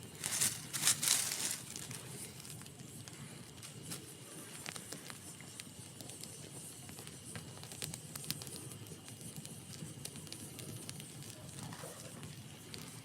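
Campfire crackling, with scattered sharp pops and snaps. About half a second in comes a louder, hissing rush of crackle lasting about a second.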